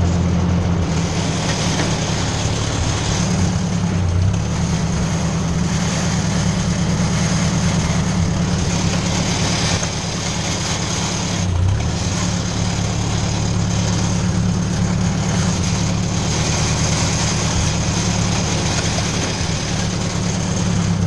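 A 1957 Ford 600 tractor's four-cylinder engine runs steadily, its pitch shifting briefly twice, about four and eleven seconds in.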